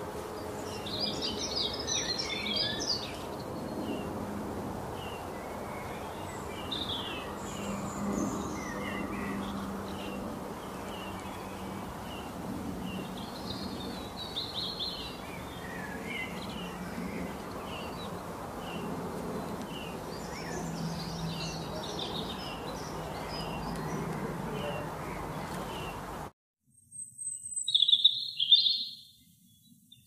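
Birds chirping and singing, many short calls and trills over a steady background hiss. The hiss and song cut off abruptly about 26 seconds in, and a few loud, close chirps follow.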